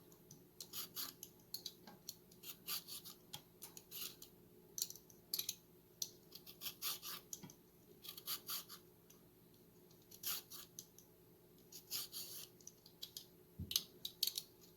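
A carrot being peeled: short, faint scraping strokes, one after another at an uneven pace.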